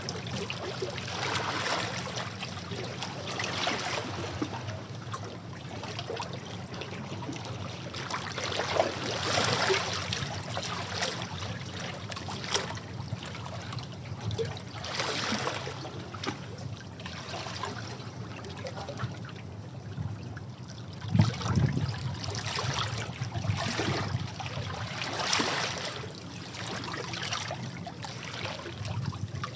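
Sea waves washing against rocks, surging every few seconds with trickling and splashing water between them, one louder splash about two-thirds of the way through.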